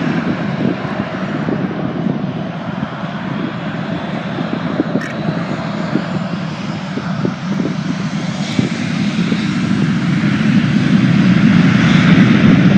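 Boeing 737-700's CFM56-7B turbofan engines spooling up to takeoff power: a steady jet rumble with a hiss above it, growing louder over the last few seconds.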